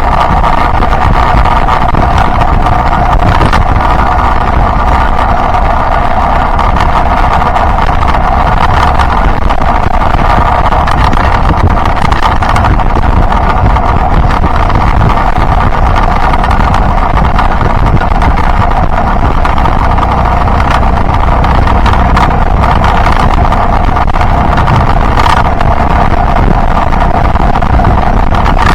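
Yamaha Byson motorcycle engine running steadily while riding, mixed with wind on the microphone.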